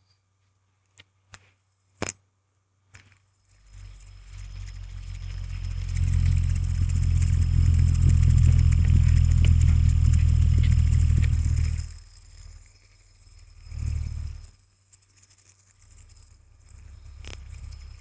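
Metal hand spinner whirring close to a binaural dummy-head microphone, a low steady hum with a hiss above it. It builds up after a few light clicks, holds loud for several seconds, stops suddenly, then whirs again briefly twice.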